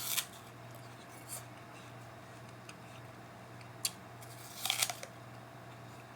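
A person biting and chewing a crisp raw apple: a few short sharp crunches, the loudest cluster about three-quarters of the way through, over a low steady hum.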